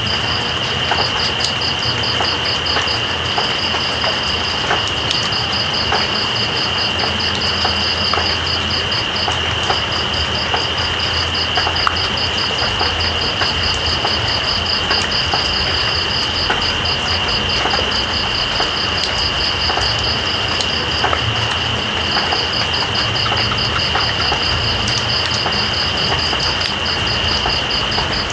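Night insects calling over steady rain: one gives a constant high trill, and a second gives a faster pulsing trill above it, which breaks off briefly about a third of the way in and again past two-thirds. The rain is an even hiss, with scattered small drip ticks.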